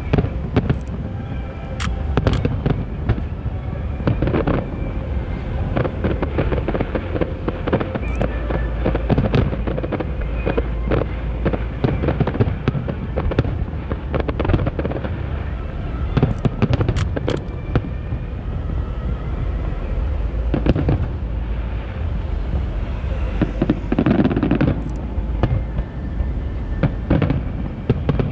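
Aerial firework shells bursting one after another in a dense, continuous barrage of overlapping bangs.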